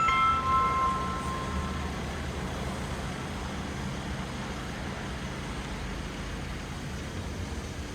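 A chime rings out at the start, several tones fading away within about two seconds, over a steady low rumble that continues throughout.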